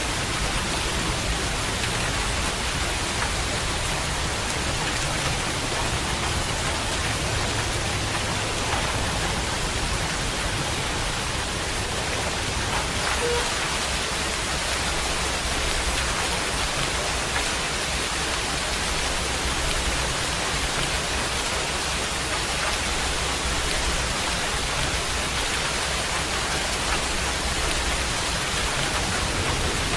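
Steady heavy rain, an even unbroken hiss of falling rain.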